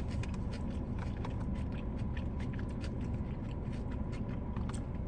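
Close-miked chewing and wet mouth clicks from eating, many small irregular clicks, over a steady low hum.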